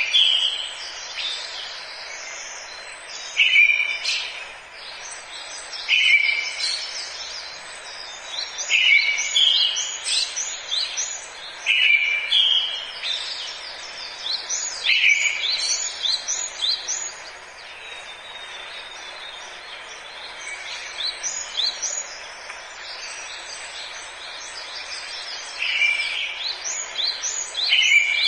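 Forest birds singing: one bird repeats a short call every three seconds or so, falling silent for a stretch in the second half, while others keep up quick, higher chirps over a steady background hiss.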